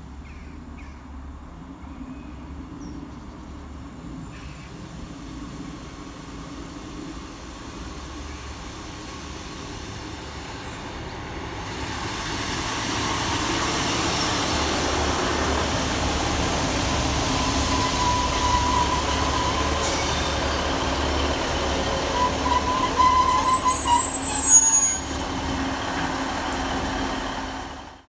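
A diesel train on the Hope Valley Line running into the station, its rumble growing steadily louder over the first dozen seconds and then holding. Brief high squeals come from the wheels or brakes twice in the second half, and the sound cuts off suddenly at the end.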